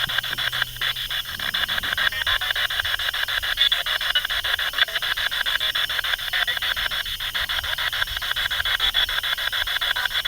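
Spirit box sweeping through radio stations: a steady stream of rapidly chopped radio static and hiss.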